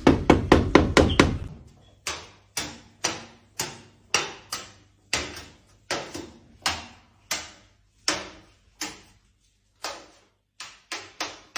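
Repeated sharp knocking on a hard surface. A quick flurry of about eight knocks comes first, then single knocks at roughly two a second, with a few short pauses.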